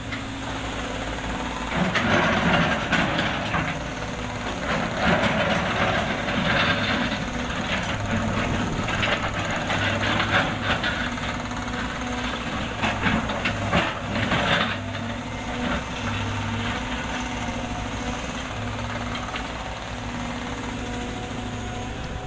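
Caterpillar excavator's diesel engine running steadily. Through the first two-thirds it is joined by irregular bursts of scraping and crunching as the machine breaks up road asphalt, then the engine runs on alone.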